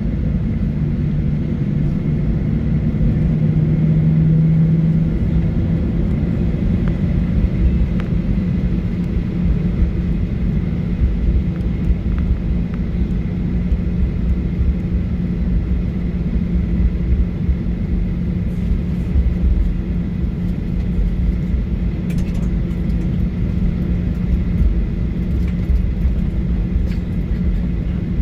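Boeing 737-900ER cabin noise, heard from inside the cabin, with the CFM56-7B engines running steadily. It is a low drone with a held hum that swells for a few seconds early on, over an uneven low rumble.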